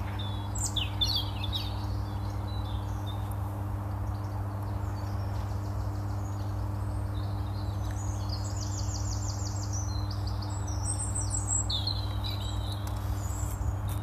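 Small birds chirping and calling in short bursts, with a fast trill of repeated notes past the middle, over a steady low hum.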